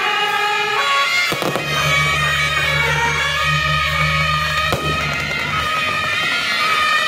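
Loud temple-fair music with a reedy, nasal wind-instrument lead playing a wavering melody. Under it a low steady hum runs from about a second and a half in until past the middle, and two sharp bangs cut through, one early and one near the middle.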